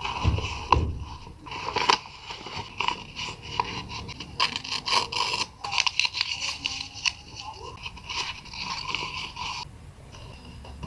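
Journaling supplies handled on paper: scraping and rustling with many light taps and clicks.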